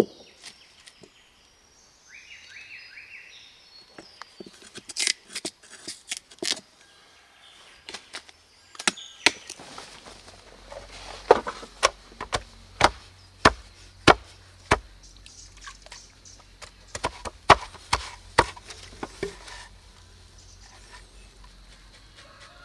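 Wood being chopped or struck with a hand tool: sharp, irregular blows, sparse at first and then coming in quicker runs of one or two a second. A few short bird calls sound early on.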